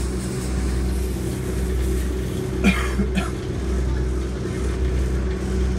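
Interior running noise of a diesel passenger train at speed: a steady low rumble and drone from engine and wheels. About halfway through there are three brief sharp sounds.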